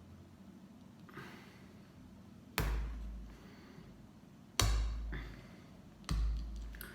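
Three sharp knocks, each with a deep thud that fades over about a second, spaced roughly one and a half to two seconds apart. They come as plastic Lego pieces are worked against the work surface to free a wrongly fitted piece without a brick separator.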